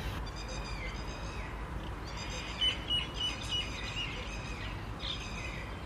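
Birds chirping and calling, with a quick run of about five short high notes in the middle, over a low steady background rumble.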